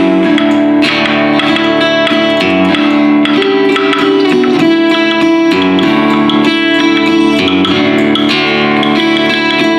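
Guitar music played without pause: sustained chords that change every second or so.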